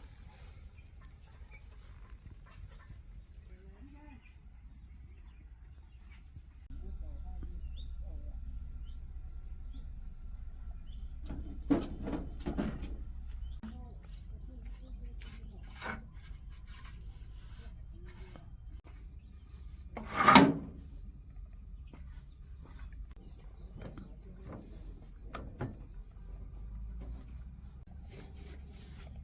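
Insects, crickets or cicadas, chirring steadily at a high pitch, growing louder about seven seconds in. A few sharp knocks and clinks come through it, the loudest about twenty seconds in.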